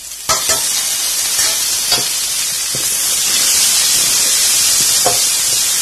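Chopped tomato and onions sizzling in hot oil in a steel kadai. The loud hiss starts suddenly just after the tomato goes in, with a few clinks of a steel ladle stirring against the pan.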